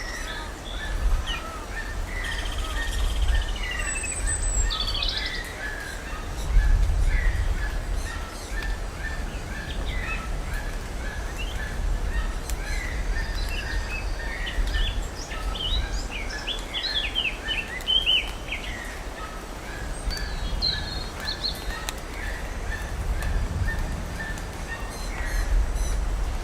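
Several birds calling in forest. One repeats a short note two or three times a second for most of the stretch, while others add scattered chirps and trills. A steady low rumble runs underneath.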